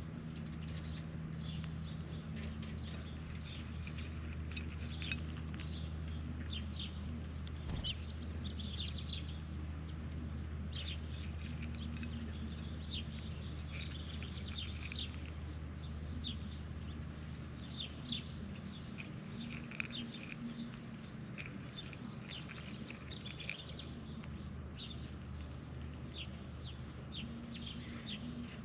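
Birds chirping and calling in many short notes, over a steady low hum that fades out about two-thirds of the way through.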